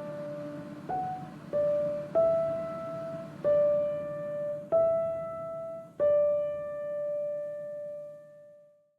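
Background piano music: a slow melody of single notes, struck one at a time about a second apart, the last note held and dying away near the end.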